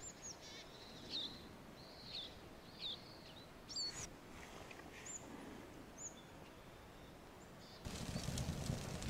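A bird chirping: short, high, curved calls, about one a second, over a faint hiss. About a second before the end, a louder even rushing noise comes in suddenly.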